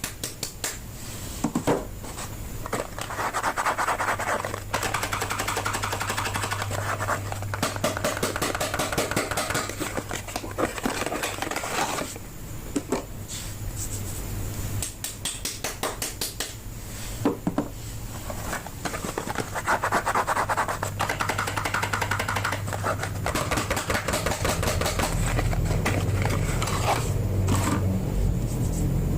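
Soap packaging being unwrapped by hand: dense crinkling, scratching and rubbing of wrapper and box, with a few louder stretches of rustling.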